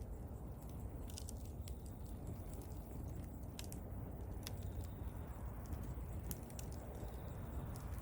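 Bonfire burning, with a low steady rumble of flames and irregular sharp crackles and pops from the burning wood.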